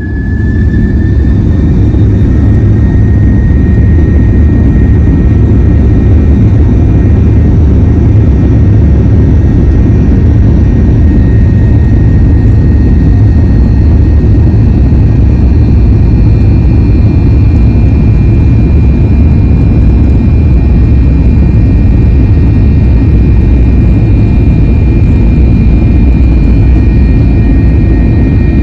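Jet engines of a Southwest Airlines Boeing 737 at takeoff power, heard from inside the passenger cabin: a loud, steady low rumble with a thin engine whine above it, and a second, higher whine joining about halfway through.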